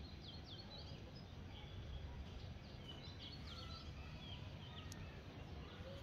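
Small bird chirping: short, sharp high chirps in two brief clusters, about half a second in and again a few seconds later. A steady low background rumble runs underneath.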